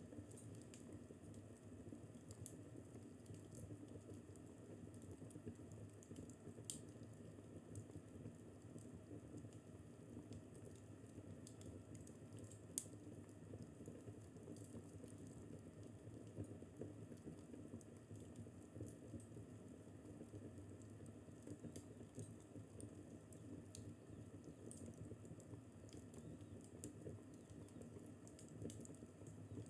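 Fireplace crackling faintly: scattered small pops and snaps over a low steady rumble, with one sharper pop about halfway through.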